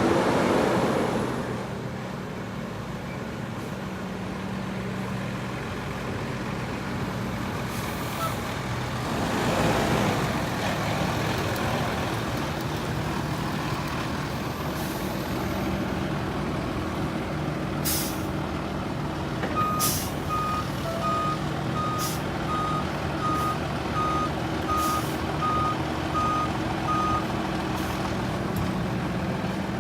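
Garbage truck engine running steadily, with several short, sharp air-brake hisses in the second half. A reversing beeper sounds about a dozen evenly spaced beeps during the last third.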